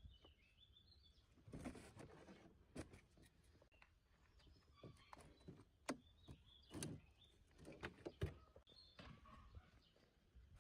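Faint scattered knocks and clicks, several sharper ones spaced a second or two apart, with short chirping calls of small birds in the background.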